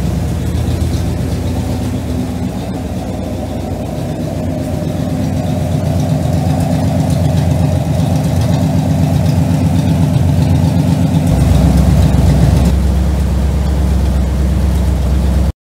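1969 Pontiac LeMans's replacement engine running at a steady idle with an even, pulsing exhaust beat. Its low rumble grows deeper and a little louder about eleven seconds in.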